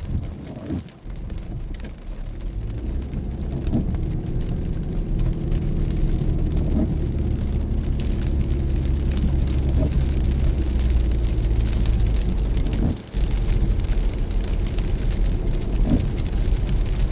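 Car driving in the rain, heard from inside: steady engine and road hum with rain noise on the car. A soft stroke recurs about every three seconds, and the hum drops out briefly twice.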